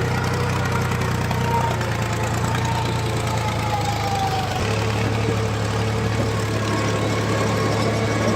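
HMT tractor's diesel engine running steadily, its low hum shifting slightly about halfway through.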